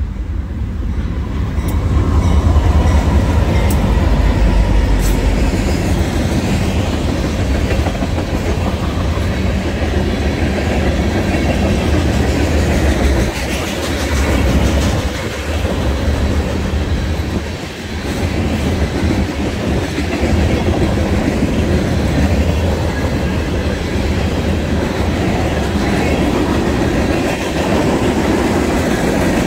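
BNSF freight train passing close by. The diesel locomotives come up and the sound swells about two seconds in, then a long string of tank cars and covered hoppers rolls past with a steady rumble and clickety-clack of wheels on the rails.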